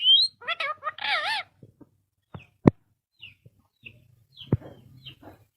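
Ringneck parrot calling: a short rising whistle at the start, then a warbling call about a second in. Later come two sharp clicks and a few soft, high chirps.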